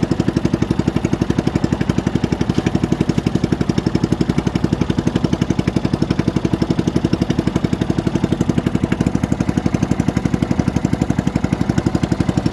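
Small engine running steadily at a constant speed, with an even rapid pulsing of about eight beats a second.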